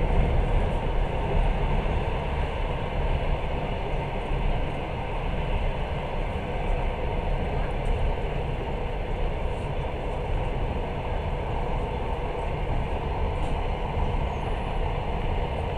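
Steady running noise of a passenger train carriage moving along the track, heard from inside the carriage.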